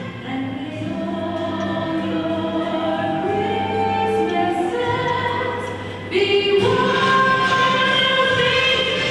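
A choir singing held notes in chords that shift every second or so; the singing gets louder about six seconds in.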